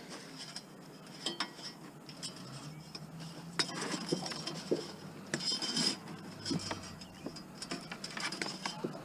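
Scattered clinks and knocks of metal and glass junk being handled and shifted in a curbside scrap pile.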